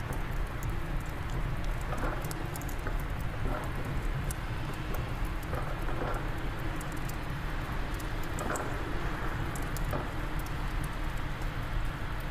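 Wind blowing steadily, with a wood fire crackling in a fireplace: many small irregular snaps and pops over the constant rush.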